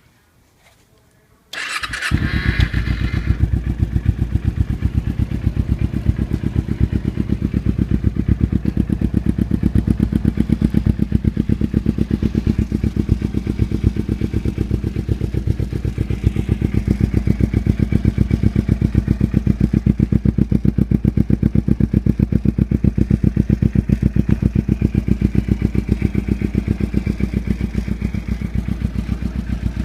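2008 Kawasaki Ninja 250R's parallel-twin engine, breathing through a Yoshimura aftermarket exhaust, cranking on the starter and catching about two seconds in. It then idles steadily with an even, rapid exhaust beat.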